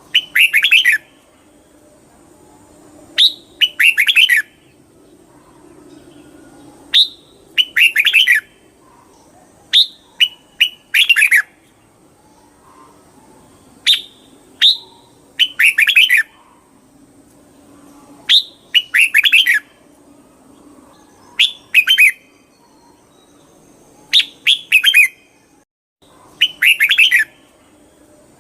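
Red-whiskered bulbul singing: short, bright, warbled phrases of about a second each, repeated every three to four seconds, about nine times. A faint steady hum lies underneath.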